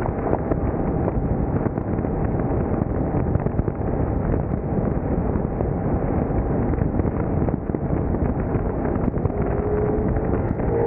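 Steady wind buffeting on the microphone over the rumble of a car driving at speed. Near the end a steady engine tone starts to come through.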